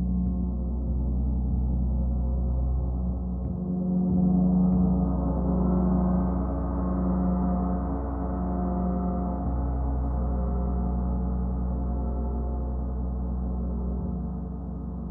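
Gong played for a sound bath: a sustained, many-toned wash of sound that swells about four seconds in, its low tones pulsing slowly.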